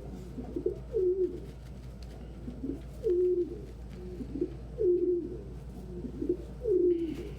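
Pigeons cooing: low repeated coos from several birds overlapping, with a louder coo about every two seconds and quieter ones in between.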